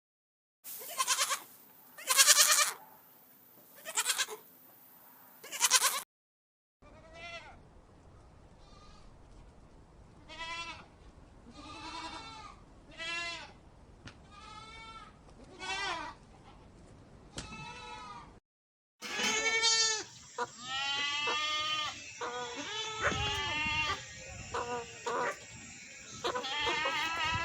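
Goats bleating in three runs. First come four loud, quavering bleats about a second and a half apart, then a string of quieter, shorter bleats. Many overlapping bleats follow through the last third.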